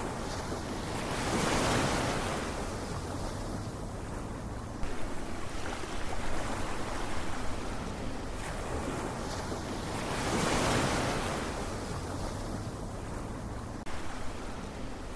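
Ocean waves breaking and washing on a shore: two waves swell up and break, about nine seconds apart, with a rougher wash of surf between them.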